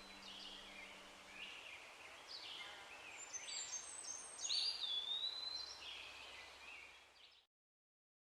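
Faint songbird chorus of short chirps and whistled notes, some of them gliding in pitch. It fades and cuts off abruptly about seven and a half seconds in.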